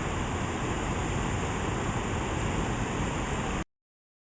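Steady rushing noise of fast-flowing floodwater, cutting off suddenly about three and a half seconds in.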